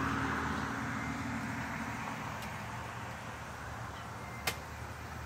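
A vehicle's low engine hum with road noise, slowly fading away, and one sharp click about four and a half seconds in.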